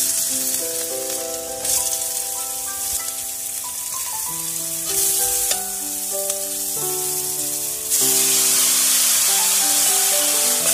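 Garlic and onions sizzling in hot oil in a wok over a wood fire, stirred with a ladle. About eight seconds in, the sizzle turns much louder as the wet, boiled elephant foot yam goes into the oil. Background music with held notes plays throughout.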